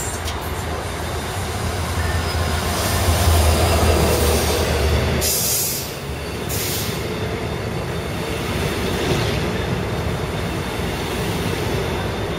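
A diesel locomotive of an Israel Railways train comes past with a low engine drone, loudest two to five seconds in. Then its double-deck coaches roll by with a steady rumble of wheels on rail. About five and a half seconds in come two short bursts of hiss.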